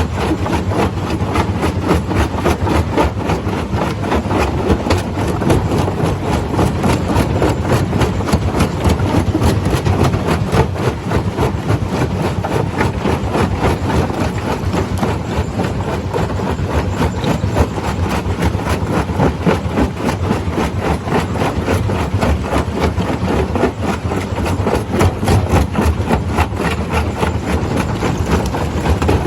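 Stone crusher running steadily: a heavy machine drone with a dense, unbroken clatter of knocks.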